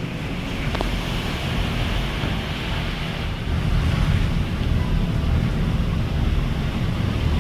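Wind buffeting the microphone over a steady wash of waves, growing louder about three and a half seconds in.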